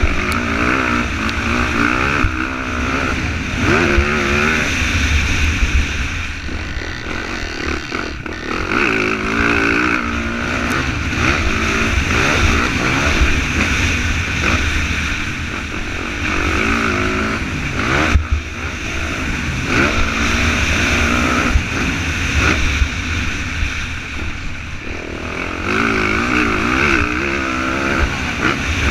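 Motocross dirt bike engine revving hard and easing off over and over, its pitch rising and falling as it accelerates, shifts and brakes around the track.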